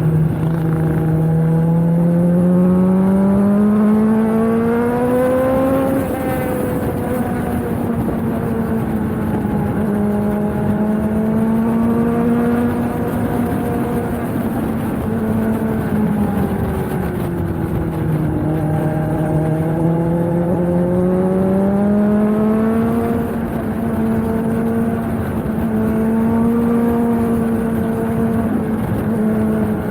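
Suzuki GSX-S750's inline-four engine through a Yoshimura Alpha T slip-on exhaust, ridden on the road: the revs climb for about six seconds, drop suddenly as it shifts up, hold steady, fall away around the middle and build again.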